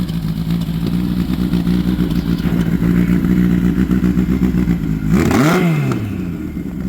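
Motorcycle engine idling steadily, then blipped once about five seconds in, its note rising and falling back to idle, with a small second blip near the end.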